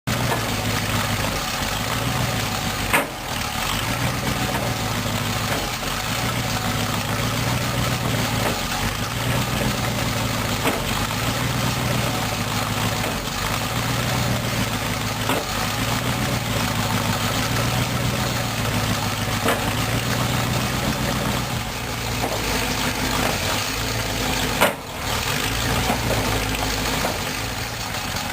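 Homemade tractor's engine idling steadily, its note wavering slightly, with a sharp click about three seconds in and another near the end.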